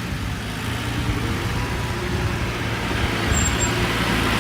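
Heavy diesel engine running, growing steadily louder.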